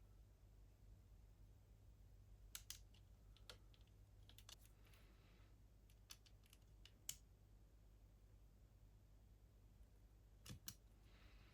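Faint, sparse clicks and light taps of small plastic model-kit parts and hobby tools being handled, with two brief soft rubbing sounds, over a low steady hum.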